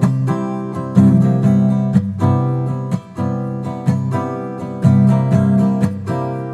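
Acoustic guitar strumming chords, with a strong strum about once a second that rings and fades before the next.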